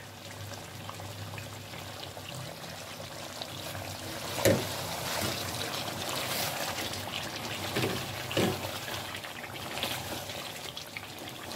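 Chicken frying in a thick yogurt-and-spice masala in an aluminium pan, a steady sizzle while it is roasted down until the yogurt dries off. A wooden spatula stirs the pieces and knocks against the pan a few times from about the middle on.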